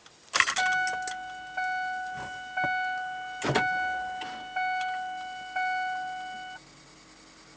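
Dashboard warning chime of a Ford F350 pickup dinging about once a second for around six seconds as the key is turned on before a cold start of its 7.3 L diesel, with a few clicks from the key and cab. The chime stops near the end and a faint low hum is left.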